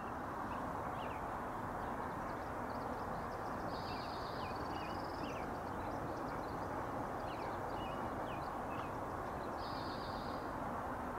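Small birds chirping with short high calls, with a buzzy trill twice, over a steady rushing background noise.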